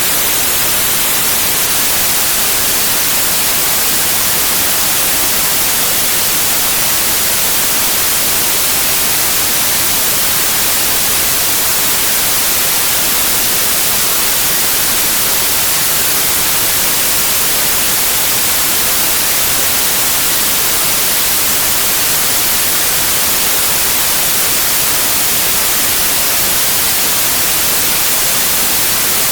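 Steady, unchanging white noise: a loud, even hiss, brightest at the high end.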